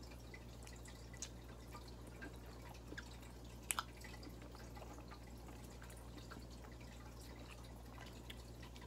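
Quiet eating by hand: soft chewing with scattered small wet mouth clicks, the sharpest about three and a half seconds in, over a faint low hum.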